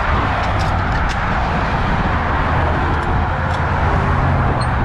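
Steady highway traffic noise with a low engine rumble underneath, and a few light clicks.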